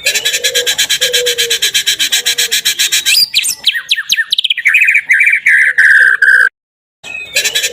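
A recorded songbird's song played on a loop as a 'pancingan' to provoke a white-rumped shama. It opens with a fast, high chatter of about eight to ten ticks a second. Next comes a quick run of sweeping whistles and then a string of clear notes. About six and a half seconds in it cuts off briefly before the same phrase starts again.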